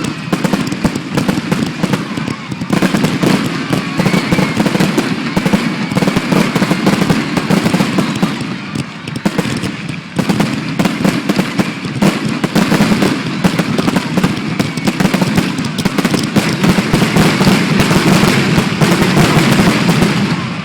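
Aerial fireworks display going off in a rapid, near-continuous barrage of bangs and crackles, with a brief easing about ten seconds in.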